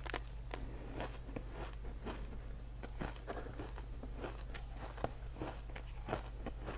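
Crunching bites and chewing of ice: many sharp, irregular crackles and snaps, over a steady low hum.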